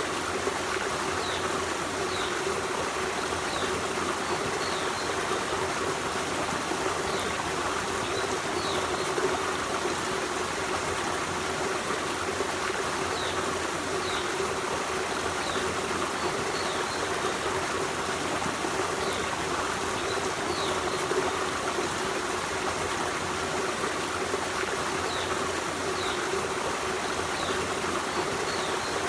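Forest stream running steadily over rocks, with short high bird chirps now and then.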